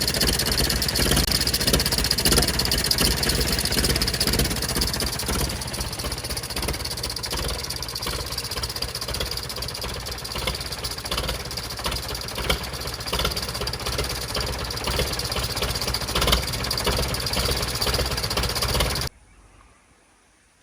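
McCormick International A414 diesel tractor engine running at idle with a rapid, regular pulsing from a leaking exhaust. It cuts off suddenly near the end.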